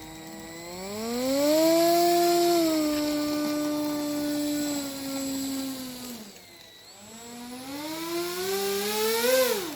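RC plane's electric motor and propeller throttled up to a steady whine for several seconds, throttled down about six seconds in, then revved up again and cut back near the end.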